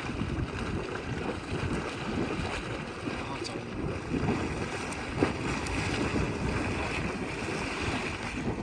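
Wind buffeting the microphone over a steady rushing noise, with no clear tones or rhythm.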